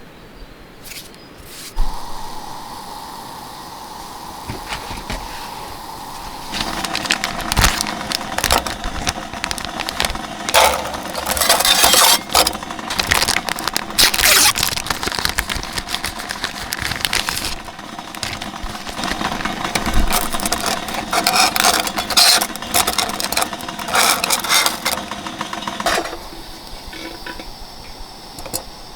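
Repeated clinks and scrapes of handled objects over a steady hum that starts with a click about two seconds in. The clinking is busiest in the middle and stops near the end.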